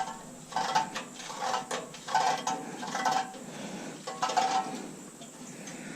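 Stainless steel parts of a coffee maker clanking and ringing as they are handled, about six metallic clatters in the first five seconds.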